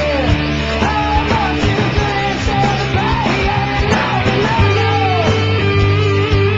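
Instrumental passage of a rock song: a lead electric guitar plays bending notes over sustained bass and steady drums.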